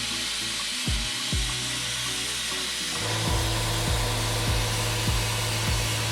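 BestArc plasma cutter cutting thin stainless steel: a steady, hissing arc and air rush with a low hum, growing louder about halfway through.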